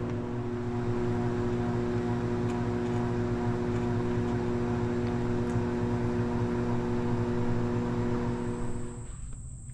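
Steady electric motor hum with several even tones held unchanged, cutting off sharply about nine seconds in. Near the end a high, thin, steady insect buzz comes in.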